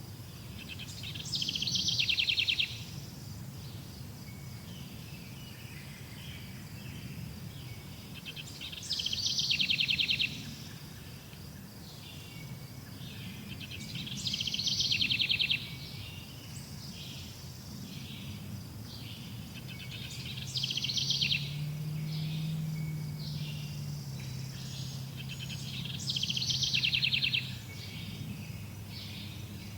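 A songbird repeating the same short song five times, about every six seconds, each phrase dropping from high notes into a fast trill. A steady low hum runs under it, with a faint high insect-like drone.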